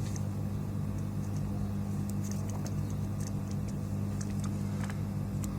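Steady low electrical hum with a few faint, light clicks scattered through it.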